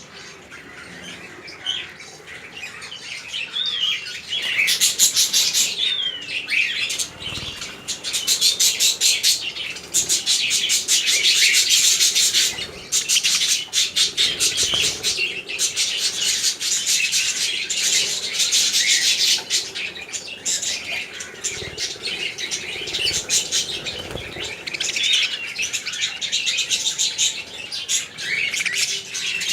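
Many small birds chirping and chattering together, with dense, rapid runs of calls that thicken from about a quarter of the way in and ease off after the middle.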